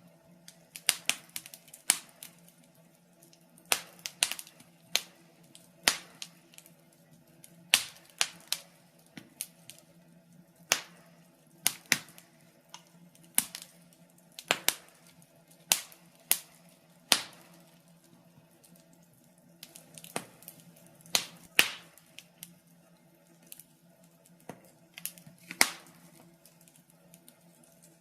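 Wood fire crackling in a fireplace: sharp, irregular pops and snaps, one to three a second, some louder than others.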